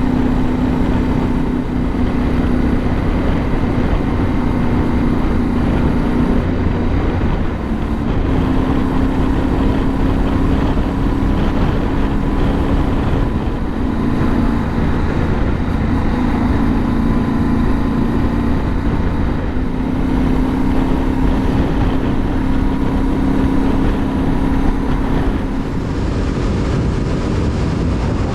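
Yamaha Ténéré 700's parallel-twin engine running under way, its pitch stepping up and down every few seconds with throttle and gear changes, over a steady rush of wind and road noise.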